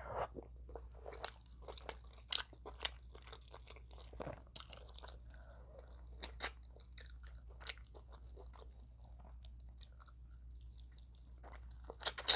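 Close-miked chewing of extra crispy fried chicken, its breading crackling in short irregular crunches, with a louder cluster of crunches near the end.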